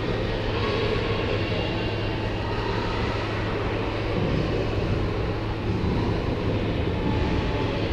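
Steady ice-arena background noise during a hockey game: an even wash of noise over a constant low hum, with no distinct sounds standing out.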